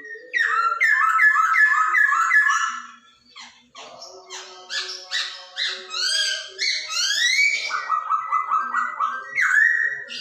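Chinese hwamei (Poksay Hongkong) singing a loud, varied whistled song: a quick string of repeated notes, a short pause, then a series of rising whistled sweeps and a fast run of repeated notes near the end.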